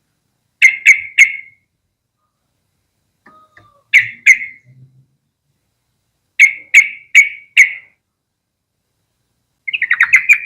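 Yellow-vented bulbul calling: short, sharp notes in quick groups of two to four, separated by pauses of a couple of seconds, then a fast run of about seven notes near the end.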